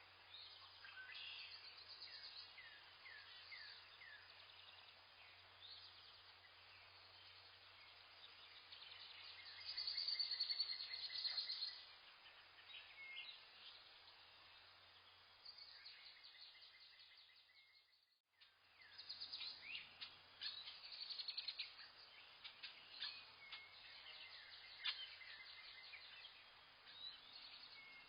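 Several small birds chirping and trilling in a forest, with quick high notes over a faint hiss. The chirping is loudest about ten seconds in, fades almost to nothing a little after halfway, then comes back.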